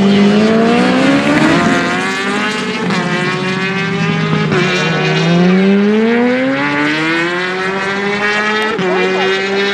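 Racing engines at full throttle, the pitch climbing and then dropping back several times as they accelerate and shift gear.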